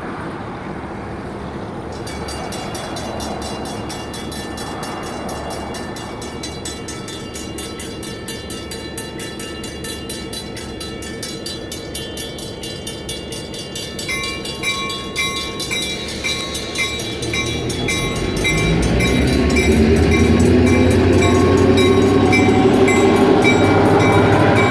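Safetran hybrid railroad-crossing bells ring rapidly, and a nearer, louder bell joins a little over halfway through. In the last quarter the diesel engine of an approaching EMD GP7u locomotive grows loud and becomes the loudest sound.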